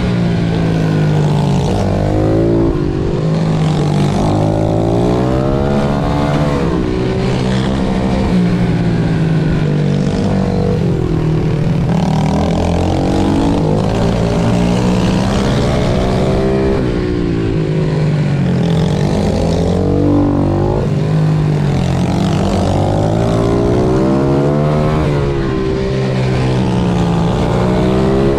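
Pit bike engine revving hard and easing off over and over, its pitch climbing and dropping every few seconds as the bike accelerates out of corners and slows into them on a kart-style track.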